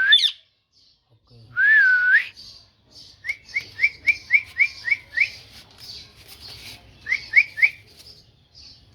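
A pet parrot whistles one wavy note. It then gives a quick run of about nine short rising chirps, a pause, and three more chirps.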